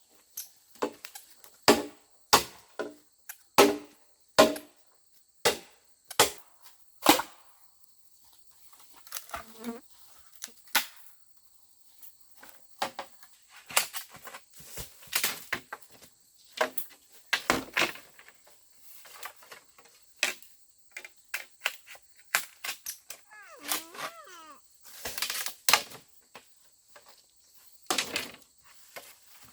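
Irregular sharp knocks and taps, some with a brief ringing tone, over a steady high-pitched drone of insects such as crickets.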